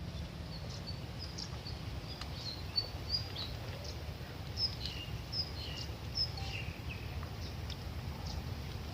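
Small birds chirping in short, high calls, several at a time, over a steady low background rumble.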